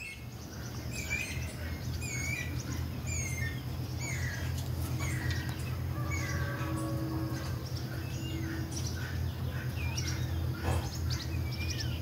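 Birds chirping: short, high, hooked notes about once a second at first, then many smaller overlapping chirps, over a steady low hum.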